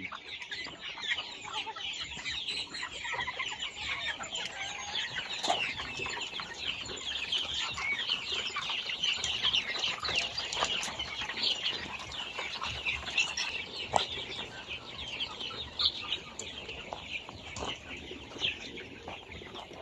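A flock of chickens clucking and chirping, with many short calls overlapping throughout and a few sharp clicks.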